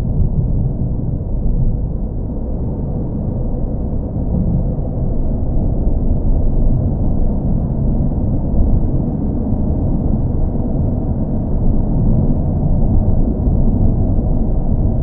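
Steady, deep car engine and road drone, running evenly with no changes, with nearly all of its sound low and little above the lower midrange.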